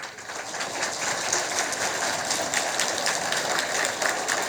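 Audience applauding: many hands clapping in a dense, steady patter that starts just after a student's recitation ends.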